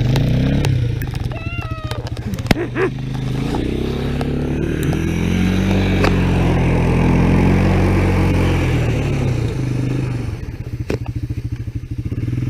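Honda ATC 250SX three-wheeler's engine revving hard under throttle, its pitch climbing for several seconds and then falling away near the end, as it spins its wheels in snow to get going.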